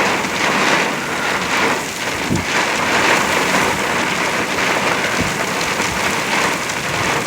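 Very heavy rain pouring down in a derecho-type thunderstorm as a steady loud rush, with strong wind gusts and a couple of brief low thumps, about two and a half and five seconds in.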